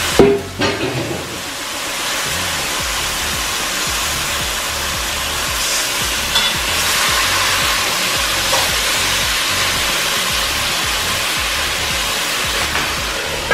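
Curry chicken frying in hot oil in a pot, a steady sizzling hiss, with a loud knock just after the start and a couple of faint clinks later on.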